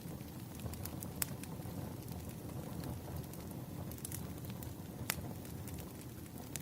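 Wood fire crackling: a low steady rumble of burning with sharp pops scattered through it, the clearest about a second in and about five seconds in.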